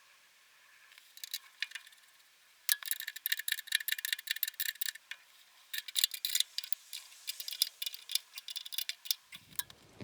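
Light, irregular metallic clicking and clinking of bolts and hand tools being handled, sparse at first and then dense and busy from about three seconds in.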